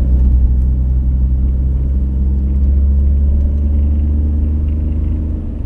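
Vehicle engine running under load with a steady low drone, rising slightly in pitch about halfway through and easing off near the end.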